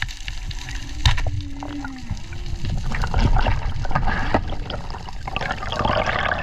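Underwater water noise in a strong current, rushing and crackling, with a sharp knock about a second in. A few short low tones bend in pitch during the first two seconds.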